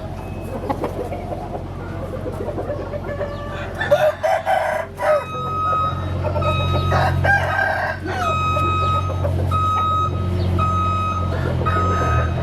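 Roosters crowing and hens clucking, with loud calls about four and seven seconds in. From about eight seconds a steady electronic beep repeats roughly once a second over a low hum.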